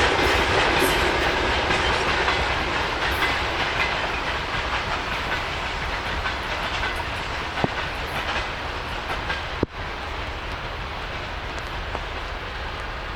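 Freight train wagons rolling past, wheels clacking steadily over the rail joints and slowly fading, with one sharp click about two thirds of the way through.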